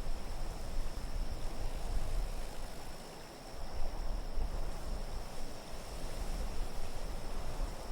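Wind blowing in gusts: a low, wavering rumble with an airy hiss above it, easing off briefly about three seconds in, with a faint steady high whistle.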